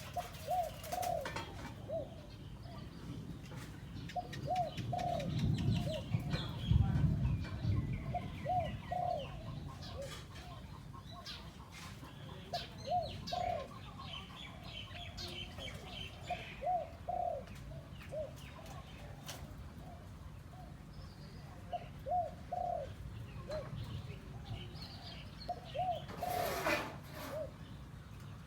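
A decoy dove cooing. Short phrases of three or four low cooing notes repeat every few seconds, with fainter small-bird chirps higher up.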